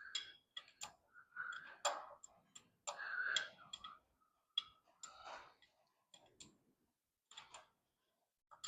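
Faint, irregular clicks and rustling of hands working a rope around the tractor's clutch pedal to tie it down.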